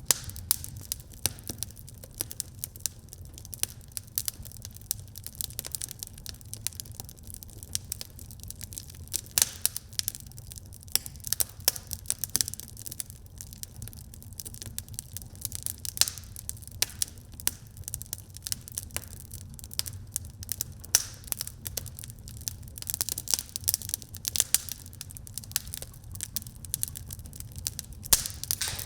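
Wood fire burning in a fireplace, crackling with many irregular sharp pops and snaps over a low, steady rumble.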